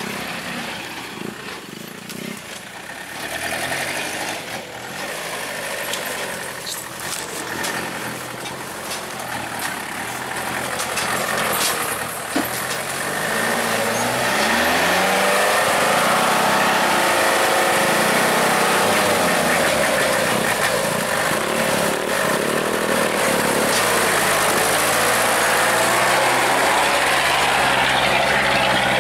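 Palm-oil truck's engine revving under load on a steep dirt track, pitch rising and falling. About halfway through it gets louder and holds a steady high rev.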